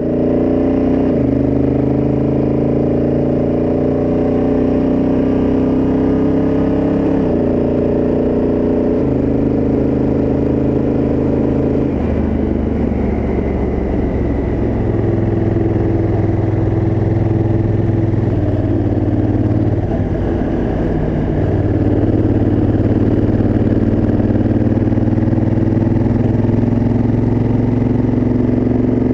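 Honda Africa Twin CRF1000L's parallel-twin engine through its stock exhaust, pulling under load as the bike is ridden, its pitch climbing and dropping back at several gear changes.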